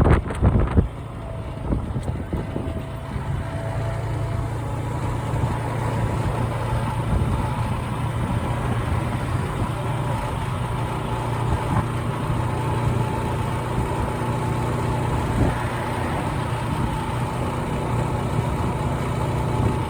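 Motorcycle engine running with a steady low hum. Wind buffeting on the microphone dies away about a second in.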